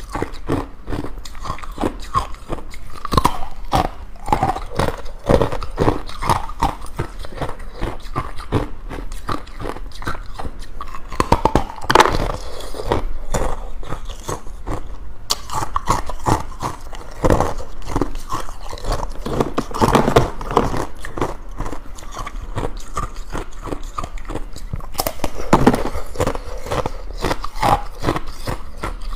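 Ice being bitten and chewed: close, continuous irregular crunching and crackling, with louder bursts of crunches about twelve and twenty seconds in.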